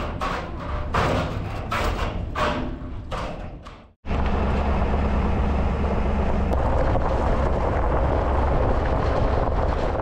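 A run of regular knocks or thumps, then an abrupt cut about four seconds in to a steady low rumble of a vehicle driving.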